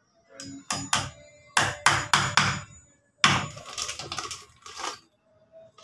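Hammer strikes on wood during simple carpentry with used lumber: a quick run of sharp knocks, a short pause near the middle, then a second, denser run of knocks.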